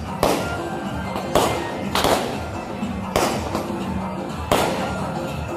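Aerial firework shells bursting: about five sharp bangs, roughly a second apart, over steady music.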